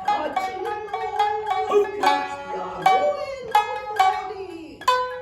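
Shinnai-bushi music: shamisen plucked in a steady run of sharp notes, with the higher-tuned uwajōshi shamisen alongside, under a long wavering sung line of jōruri chanting that slides down in pitch near the end.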